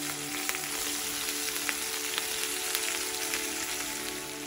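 Soaked moong dal sizzling in hot oil with fried onions in a frying pan: a steady crackle with scattered sharp pops.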